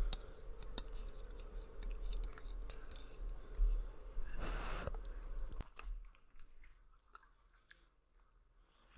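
Close-up chewing of noodles with wet mouth clicks and smacks. A longer, louder noisy swell comes about four and a half seconds in, and from about six seconds in only a few soft clicks remain.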